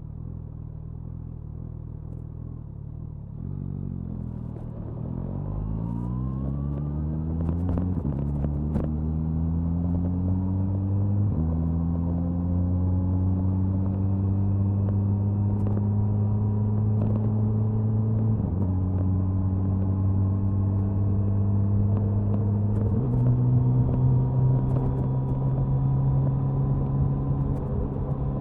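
Suzuki Hayabusa inline-four exhaust, recorded near the tail of the bike. It holds a steady low note for the first few seconds, then accelerates hard. The pitch climbs, drops at each of four upshifts and climbs again, with wind noise underneath.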